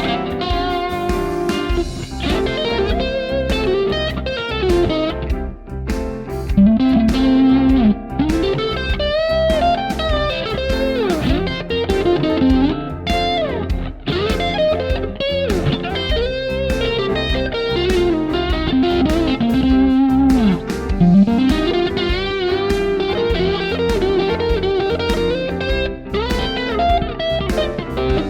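Fender Deluxe Stratocaster electric guitar, with N3 Noiseless stacked-humbucker pickups, playing blues lead lines with frequent string bends.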